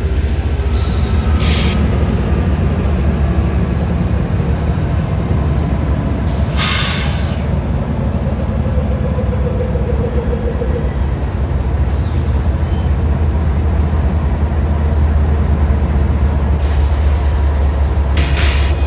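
Train passing close by: a steady deep rumble with several short bursts of hiss, the longest about six to seven seconds in and another near the end.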